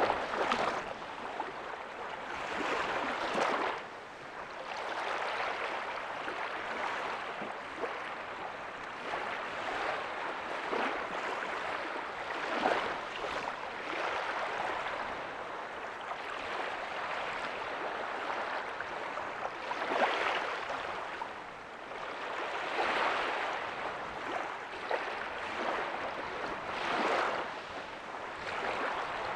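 Ocean surf washing on a beach: a continuous hiss of water that swells and ebbs every few seconds as small waves break and run up the sand.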